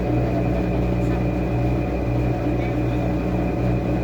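Washing machine running, a steady motor hum with a faint high whine.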